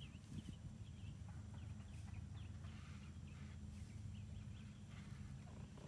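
Faint garden ambience: small birds chirping in short, scattered calls over a steady low hum.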